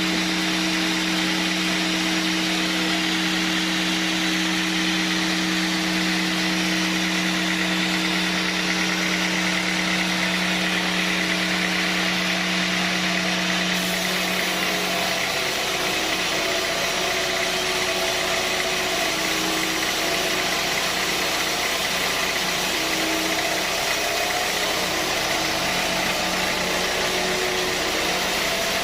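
Sawmill machinery running with a steady, loud hum; about halfway through the low hum changes and the tone becomes less even.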